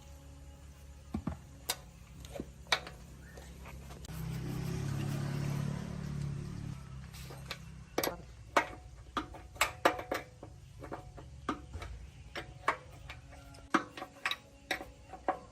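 Irregular light metallic clinks and taps of tools and metal parts being handled, with a low rumbling swell lasting a few seconds in the middle.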